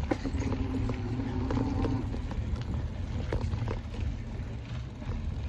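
Low, steady rumble of wind buffeting the action camera's microphone and tyre noise while an e-bike rides along a park path, with a few light clicks.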